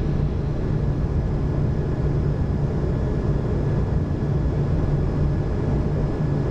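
Steady cockpit noise of an Airbus A220 climbing just after takeoff at takeoff thrust: an even low rumble of airflow and engines with a steady hum underneath.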